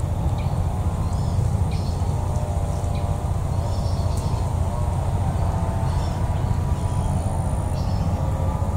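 Small birds chirping in short, repeated calls over a steady low rumble, with a brief thin high whine late on.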